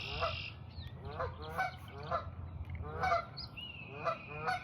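Geese honking again and again, about two calls a second, over a steady low rumble.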